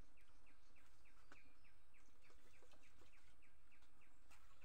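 Faint bird chirping: a steady series of short, high, falling chirps, about three a second.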